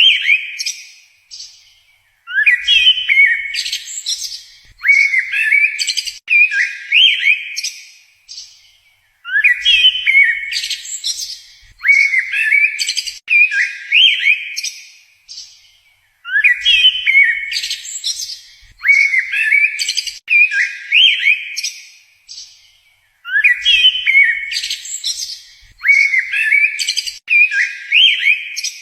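A songbird singing phrases of quick rising chirps and whistles. The same phrase returns about every seven seconds, as if the recording loops.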